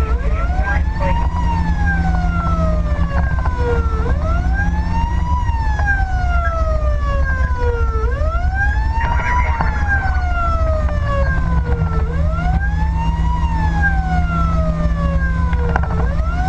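Fire engine siren in wail mode: a slow sweep that rises quickly and falls slowly, repeating about every four seconds, over the truck's loud, steady engine and road rumble.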